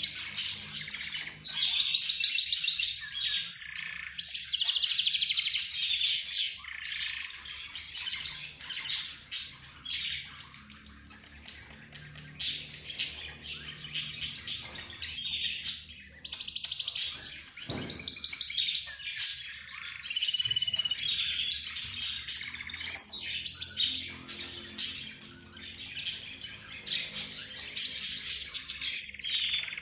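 A mixed group of cage birds (budgerigars, rosy-faced lovebirds, zebra finches and a canary) chirping, warbling and trilling over one another continuously, with rapid rolling trills at times.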